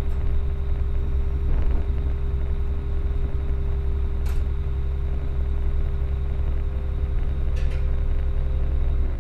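Passenger train running along the line, heard from inside the carriage: a steady low rumble with a constant hum, and two short clicks, one about four seconds in and one near the end.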